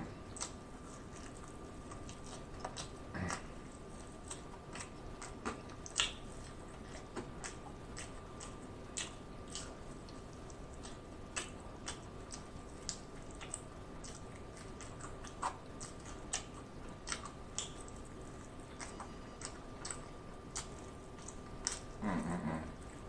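Close-miked chewing of fried chicken, with scattered wet mouth clicks and smacks, and a brief voiced sound near the end.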